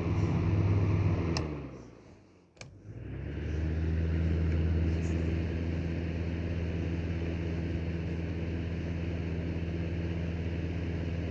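Electric upright fan heater's fan motor humming steadily, then switched off with a click about a second and a half in and winding down almost to nothing; a second click about a second later and the fan spins back up and hums steadily again.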